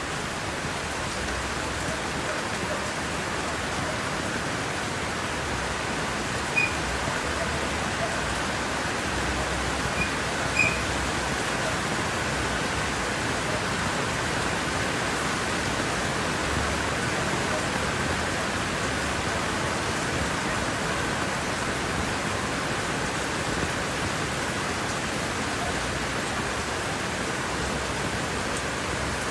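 Steady rain falling on leaves and trees, an even hiss, with a few brief louder ticks about a third of the way in.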